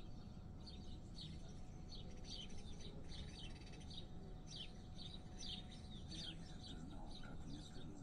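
Small birds chirping, many short high calls dropping slightly in pitch and coming several a second, over a faint steady low rumble.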